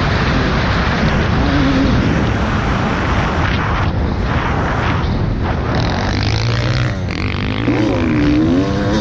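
Dirt bike engine revving up and down under heavy rushing wind noise, the pitch climbing and dropping repeatedly near the end.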